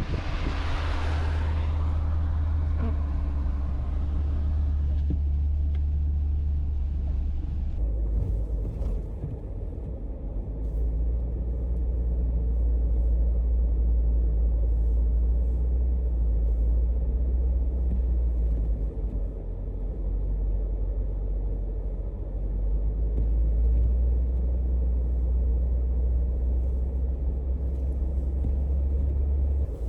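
Steady low rumble, with a burst of hiss near the start that fades within a few seconds.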